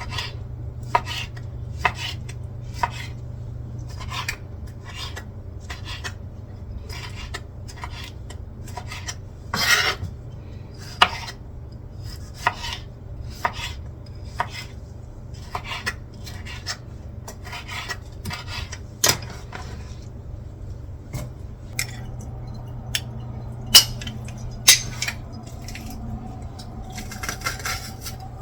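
A kitchen knife cutting tomatoes on a cutting board, one stroke about every second, thinning out after about twenty seconds. A steady low hum runs underneath.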